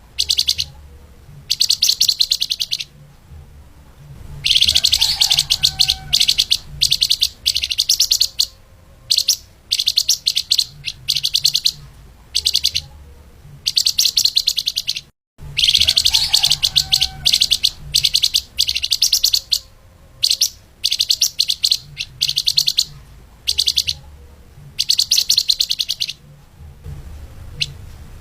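Flamboyan (lemahan) songbird singing fast, dense bursts of rapid high chattering notes, each burst about a second or two long with short pauses between, over a faint low hum. The sound cuts out completely for a moment about 15 seconds in.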